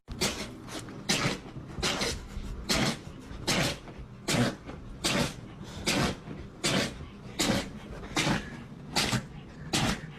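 A dog sneezing over and over, a dozen or so sharp sneezes evenly spaced less than a second apart, as from an allergic fit.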